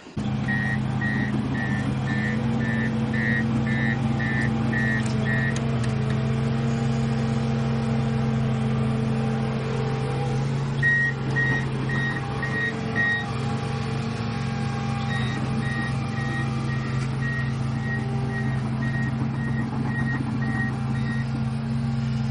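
Heavy machine's engine running steadily while its reversing alarm beeps about twice a second, stopping and starting again twice.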